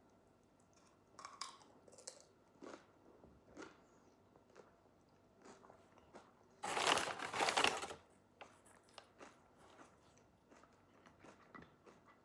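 A person eating close to the microphone: soft chewing and small clicks and crackles of food, with one louder noisy crunch lasting about a second a little past the middle.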